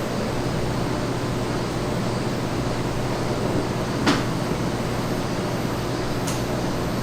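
Steady machine hum, like a ventilation fan or refrigeration unit running, with a sharp click about four seconds in and a fainter one near the end.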